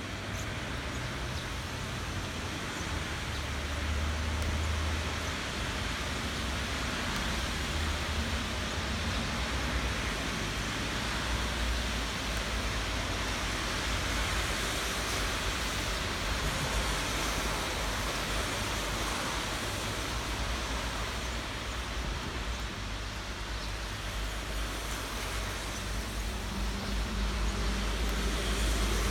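Steady rain falling, an even hiss, with a low rumble underneath that swells near the end.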